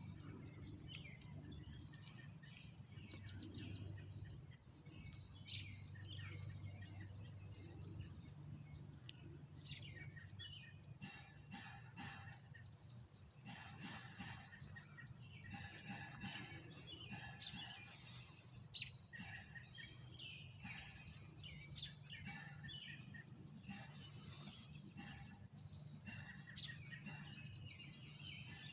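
Songbirds chirping and calling in the trees, many short chirps overlapping throughout, over a faint low steady hum.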